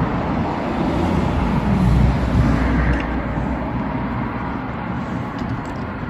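Steady background traffic rumble with no distinct events.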